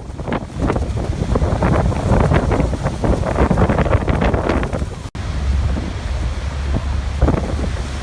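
Waterfall: rushing water as a dense, uneven roar with a low rumble, and wind buffeting the microphone. The sound cuts out for an instant about five seconds in.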